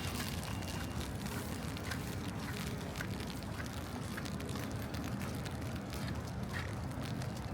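City street ambience in light rain: a steady low rumble of distant traffic with faint, scattered ticks.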